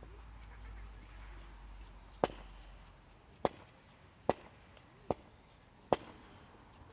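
Five sharp chopping knocks, roughly one a second, starting about two seconds in.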